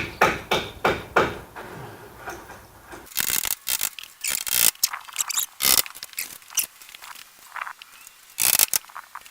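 Wire mesh being handled against a wooden frame, scraping and rattling in short irregular bursts.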